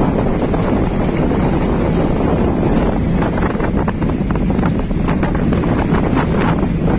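Wind buffeting the microphone on a moving boat, over the steady noise of the boat underway, with crackling gusts in the second half.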